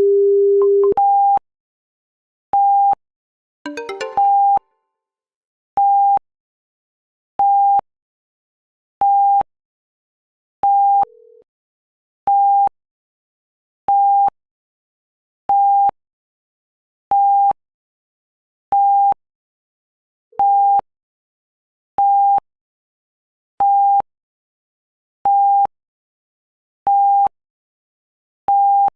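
Electronic alert beeps from live seismograph monitoring software, sounding for a detected earthquake. A longer low tone and a short jingle of mixed tones about four seconds in give way to a steady high beep repeating about every second and a half, with a lower beep now and then.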